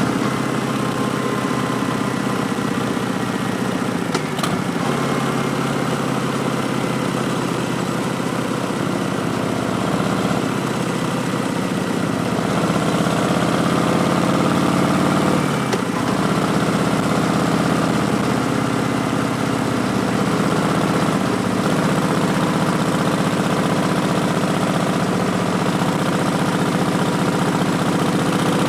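Harley-Davidson Street Bob's Milwaukee-Eight V-twin running through Vance & Hines Twin Slash slip-on mufflers, the engine note rising and falling several times with throttle and gear changes.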